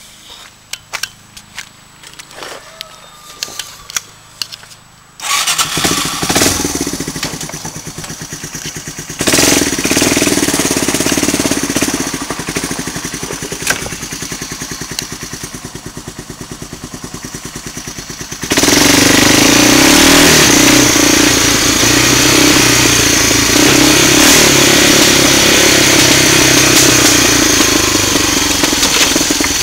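ATV engine breathing through a homemade straight-pipe exhaust, built from the stock muffler's baffle. A few clicks and knocks come first; the engine starts about five seconds in and runs with a rise in revs. From about two-thirds through it runs much louder and steadily under throttle as the four-wheeler is ridden off.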